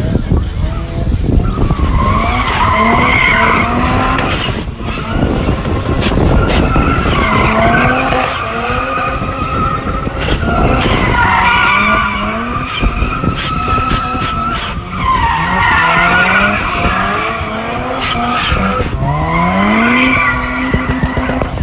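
Drift cars revving hard with tires screeching as they slide. The engine pitch climbs again and again in waves every few seconds over a constant tire-smoke roar.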